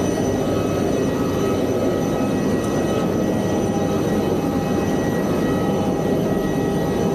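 Jet airliner noise: a loud, steady rushing hum with several steady high whining tones over it.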